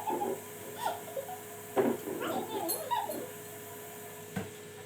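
A dog whimpering in a few short whines, with a single sharp tap near the end.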